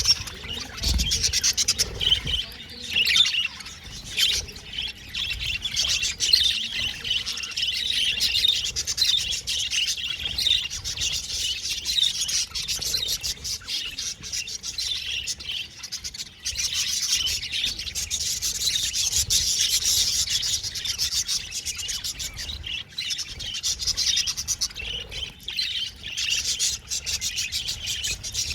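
Several budgerigars chirping and warbling in a continuous, busy chatter, with a brief low bump about a second in.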